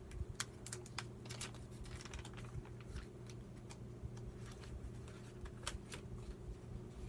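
Irregular light clicks and taps of hands handling paper and craft materials at a table, over a faint steady hum.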